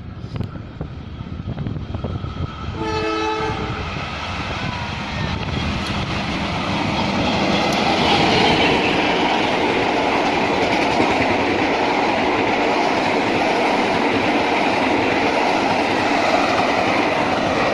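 A train horn sounds briefly, then the noise of a train on the rails builds and stays loud as it passes close by.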